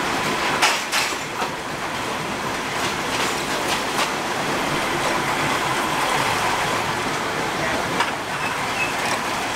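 Diesel commuter railcar running along the track, heard from inside a non-air-conditioned carriage: a steady rumble of wheels on rails with irregular sharp clicks over the rail joints, and a faint thin whine around the middle.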